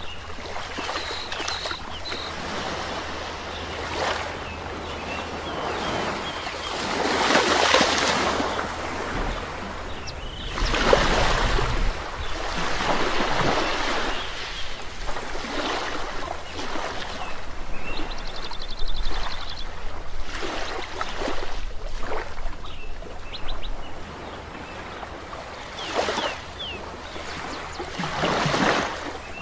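Sea waves breaking and washing up on a shore, each wave swelling and fading, with faint bird calls above them, including a quick run of calls a little past the middle.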